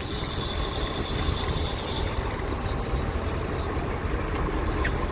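Charter fishing boat's engine running steadily, a low rumble under a wash of noise.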